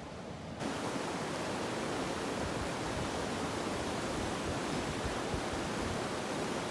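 Rushing river water: a steady, even hiss that comes in abruptly about half a second in and holds level.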